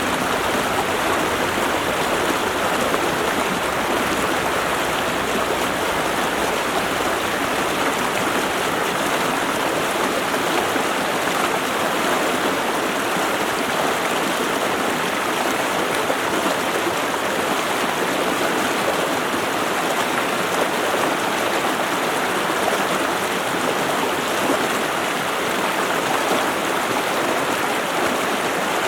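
Running stream water, a steady, unbroken rush.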